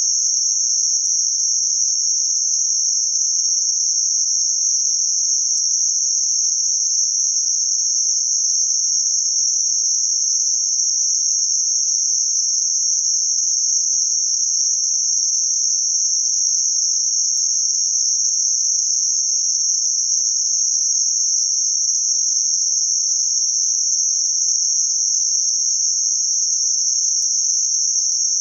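Synthetic band-limited noise centred around 6051 Hz: a steady, high-pitched hiss with nothing below or above the band, unchanging in level.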